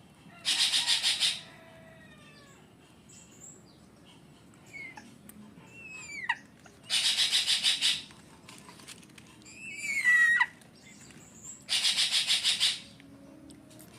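Grey-headed fish eagle chick begging for food: three loud bursts of rapid chittering, each about a second long, with shorter whistled squeals that rise and fall between them.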